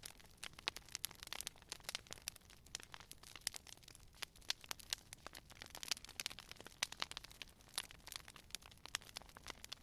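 Campfire crackling: irregular sharp pops and snaps of burning wood, several a second, over a faint low rumble.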